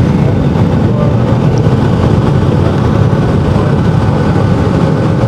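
Steady, loud engine and airframe noise of a Boeing 757 with Rolls-Royce engines, heard from inside the passenger cabin.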